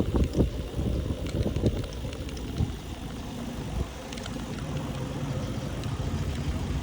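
Low rumble of a moving bicycle, wind and road noise on the camera microphone, with a few sharp knocks in the first two seconds and a steadier rumble after that.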